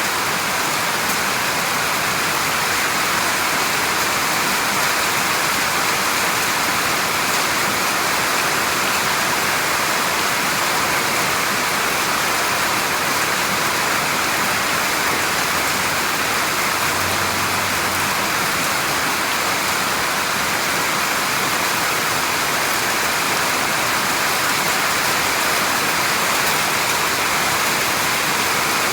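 Steady, even rain noise, a constant hiss of falling rain.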